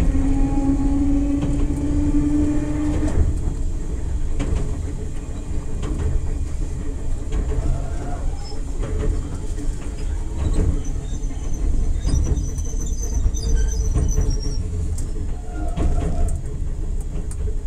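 Enoden electric train running, heard from inside the car: a steady low rumble of wheels on rail, with a motor whine that rises slightly and stops about three seconds in. Occasional clicks follow, and a faint high wheel squeal comes in the later part.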